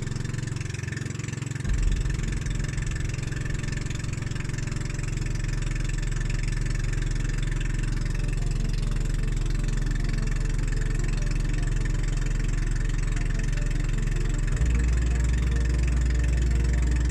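An engine running steadily with a low drone; its deepest part grows louder near the end.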